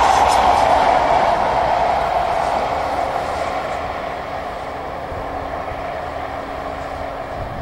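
InterCity 125 High Speed Train running at speed and drawing away: a loud rush and rumble of wheels on rail that fades steadily as it recedes. A faint steady hum comes in about halfway.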